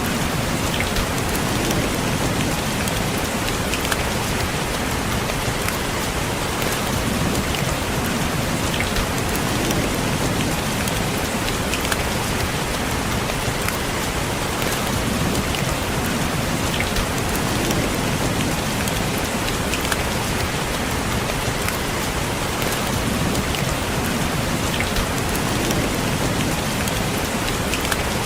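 Steady rain, with many small drops tapping on a window pane.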